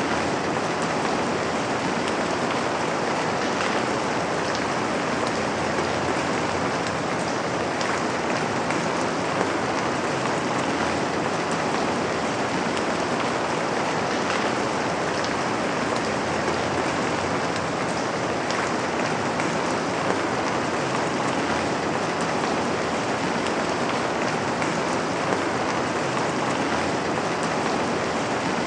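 Steady rain falling on a window: an even hiss with faint individual drop hits scattered through it.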